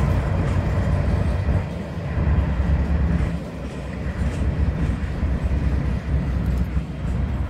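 Empty coal hopper cars of a Norfolk Southern freight train rolling past, a steady low rumble of steel wheels on rail.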